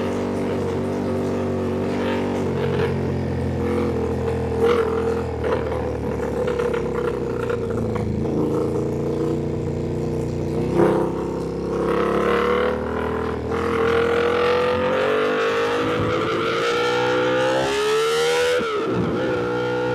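Ducati Panigale V2 V-twin engine under way, holding a fairly steady pitch and then revving up over the last few seconds. The pitch dips sharply and climbs again near the end.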